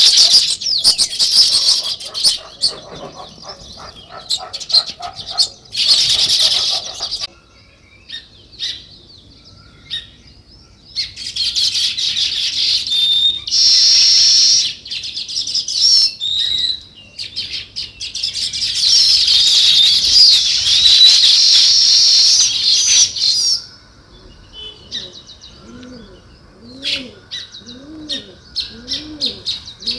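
Sparrows chirping in loud spells of many overlapping chirps, with quieter gaps between. Near the end a pigeon coos low in short repeated phrases, about one a second.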